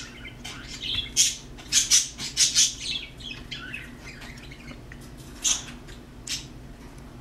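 Birds calling: a quick run of short, high calls in the first three seconds, then two more single calls later on.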